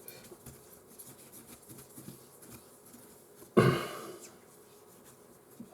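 Faint handling noises from hands at work on a phone on a repair bench, with one sudden loud noise about three and a half seconds in that fades over half a second.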